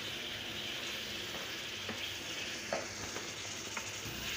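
Goat liver (kaleji) masala sizzling in a frying pan as it is stir-fried (bhuna) on medium heat, with a spoon stirring through it. There are a few light knocks about two, three and four seconds in.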